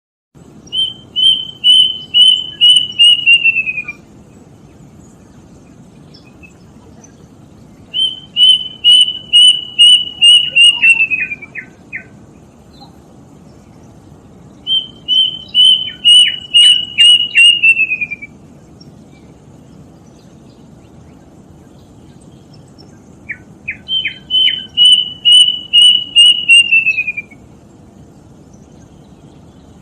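Kedasih cuckoo (a Cacomantis cuckoo) singing: four runs of about eight clear whistled notes, each run a few seconds long and falling slightly in pitch at the end, some with a few short lower notes added. A faint steady hiss lies underneath.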